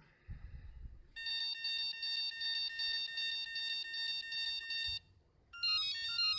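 Brushless-motor ESCs of a 24 V dual friction e-bike drive sounding their throttle-calibration tones, played through the motors. First comes a steady beep pulsing about twice a second, as full throttle is detected. After a short pause, once the throttle is turned down, comes a quick run of stepped tones, the ESCs confirming the reset.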